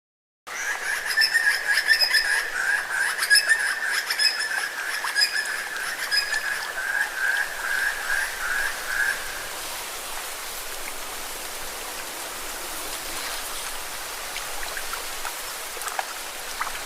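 A frog's long pulsed trill, slightly falling in pitch before it stops about nine seconds in, over the steady wash of lake waves on rocks. The sound comes in suddenly after a moment of silence.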